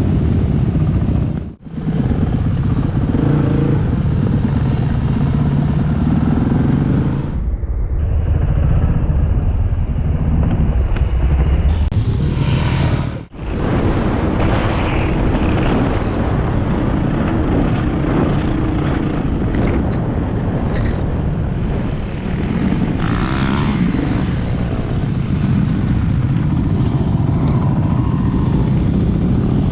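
Motorcycle engines running while riding, a steady engine sound with pitch that varies. The sound drops out sharply twice, about a second and a half in and again near the middle, where clips are joined.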